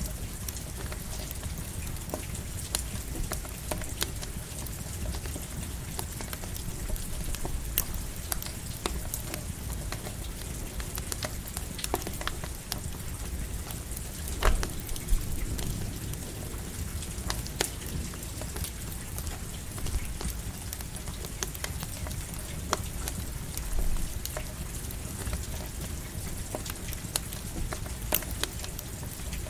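Steady rain with a campfire crackling and popping, many sharp snaps scattered through, over a low rumble.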